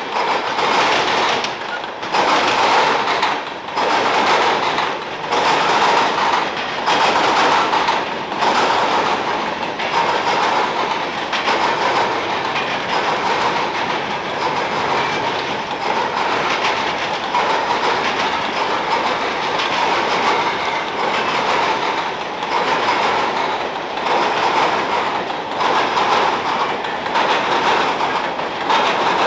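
CSX freight train rolling past, its cars' wheels clacking over the rail joints in a steady repeating rhythm.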